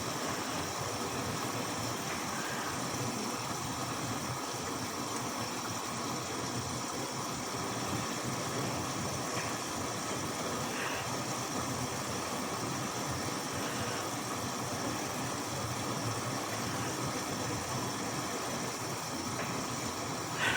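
Bauknecht WAS 1400 washing machine running with a steady mechanical hum and whirr, even in level throughout, with a few faint short chirps.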